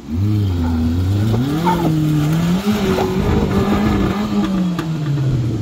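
Small car's engine revved hard under full throttle on an off-road climb: the pitch rises over the first two seconds, holds high, then drops near the end as the driver backs off.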